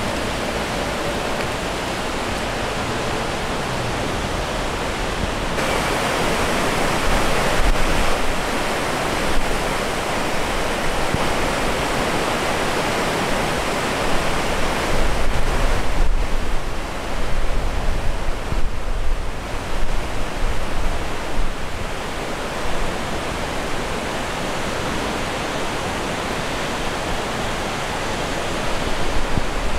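The Afon Lwyd in flood, its swollen water rushing steadily. It grows louder from about six seconds in, with bouts of low rumbling wind buffeting the microphone in the second half.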